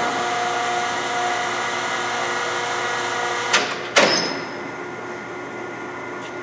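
LeBlond Regal engine lathe running with its spindle at 136 rpm, the headstock gearing giving a steady hum with a few fixed whining tones. Two sharp metal clunks come about three and a half and four seconds in, after which the machine runs noticeably quieter.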